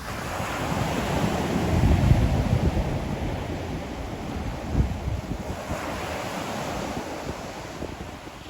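Ocean waves breaking on the shore: the surf swells up to a crash about two seconds in, washes out, and another wave comes in past the middle. Wind buffets the microphone with low rumbles throughout.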